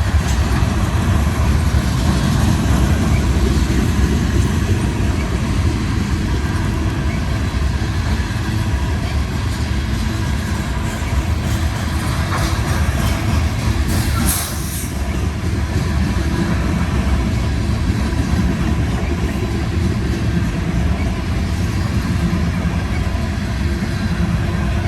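Loaded grain and coal freight train rolling past, a steady heavy rumble of wheels on the rails. A short burst of sharper, higher noise stands out a little past halfway.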